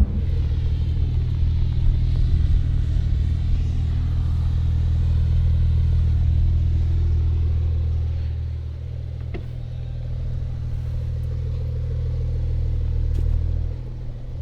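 Brabus 820 Porsche 911 Turbo S's twin-turbo flat-six running as a steady, deep drone at an unchanging engine speed, heard from inside the cabin, easing off a little about two-thirds of the way through.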